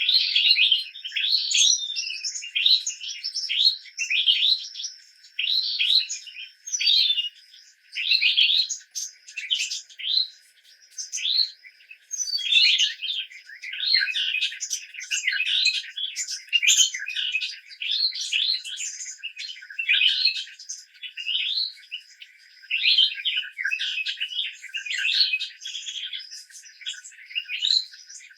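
Birds chirping in short, quickly repeated calls that come thicker in the second half, over a thin steady high tone.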